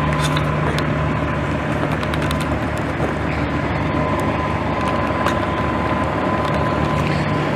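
A vehicle engine idling steadily, a constant hum with a faint high whine above it and a few light clicks.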